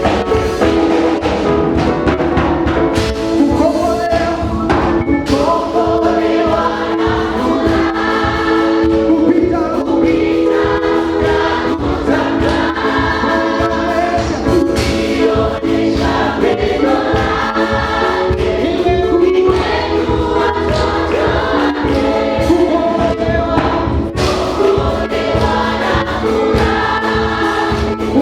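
Praise and worship choir singing a Swahili gospel song in parts, over a band with a steady, driving beat.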